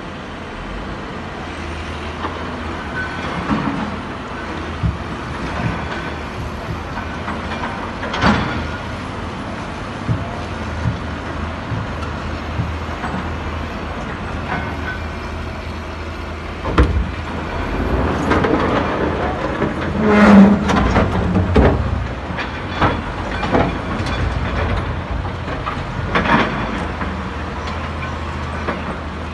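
Heavy diesel machinery running steadily at a low hum, with scattered knocks and several loud clanks of metal and rock, the loudest about twenty seconds in.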